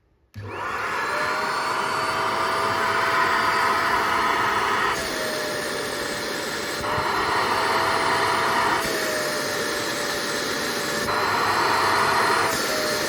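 Parkside ash vacuum cleaner switched on about half a second in and running steadily: a loud rushing of air under a steady motor whine, the airflow sound changing in tone every second or two.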